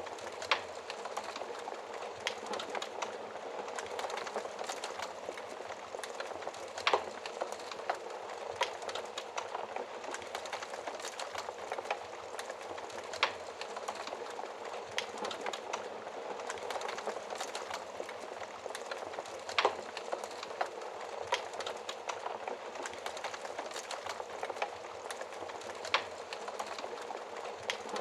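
Fire crackling in a fireplace: a steady bed of small crackles, with a louder sharp pop about every six or seven seconds.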